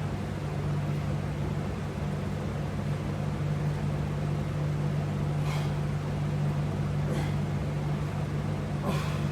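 Steady low hum of a running motor or fan, with three faint brief noises in the second half.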